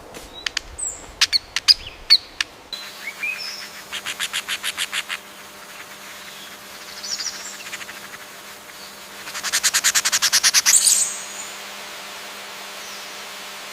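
Songbirds chirping, with a few sharp clicks at first. Then come two rapid trills, the second louder and ending in a quick falling whistle. The last couple of seconds hold only a steady hiss.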